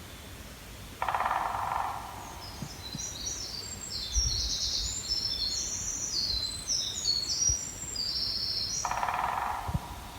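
Woodpecker drumming on wood: two rapid rolls of knocks, each under a second, about a second in and near the end. Between the rolls a songbird sings a long, high song of many quick notes.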